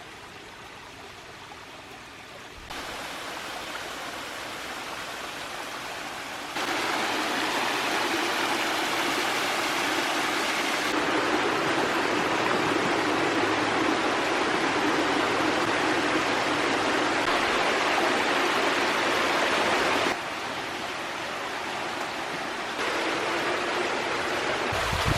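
Water rushing and splashing in a small waterfall over a solid-rock creek bed, a steady hiss that jumps abruptly louder or quieter several times.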